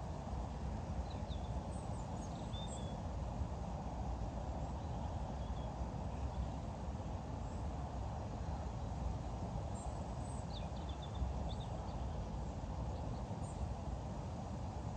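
Outdoor ambience: a steady low rumbling noise with small birds chirping faintly now and then, a cluster of chirps about ten seconds in.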